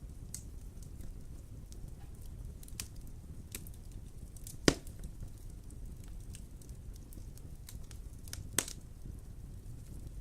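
Wood fire burning in a fireplace: a steady low rumble of flames with scattered light crackles. One sharp pop comes about halfway through and a smaller one near the end.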